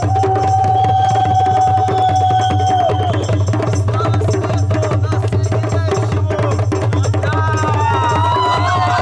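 Hand drums beaten in a fast, steady rhythm, with a long held note over the first few seconds and several rising calls near the end.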